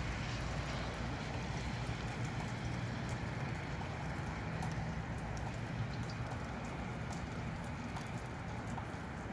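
Steady rain shower falling, with many scattered drops ticking on nearby surfaces and a low, steady rumble of breezy wind underneath.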